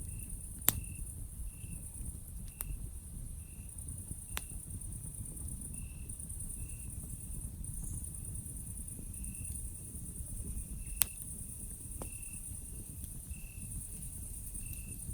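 Campfire crackling, with a few sharp pops, the loudest just under a second in and about eleven seconds in. Behind it, insects keep up a steady high pulsing trill, and a short chirp repeats about every half second to a second.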